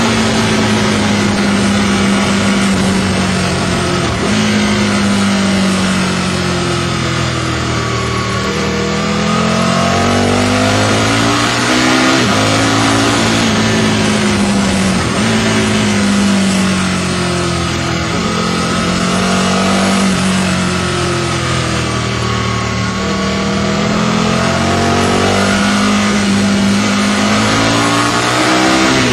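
Aprilia RSV Mille's V-twin engine through an aftermarket Micron exhaust, under way on the road, its pitch rising and falling again and again as the throttle is opened and eased off through the gears.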